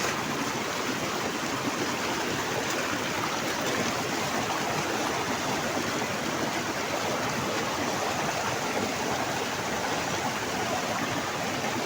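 Heavy rain pouring down with rushing water, a steady, unbroken rush of noise.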